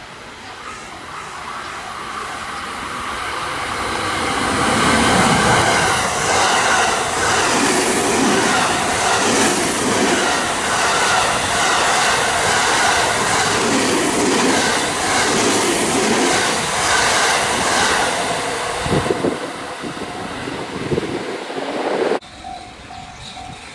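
A train passing at speed on the line. It grows louder as it approaches, then comes a loud stretch of wheels clacking over rail joints in repeated pairs, before it fades away. The sound cuts off suddenly near the end.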